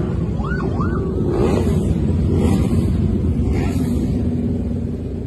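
A vehicle siren yelping in quick rising-and-falling sweeps for about the first second, over a steady low rumble of engines and traffic.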